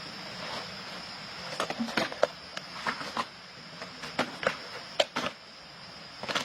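An irregular series of sharp clicks and knocks, about a dozen, starting about a second and a half in, over a steady high-pitched hiss.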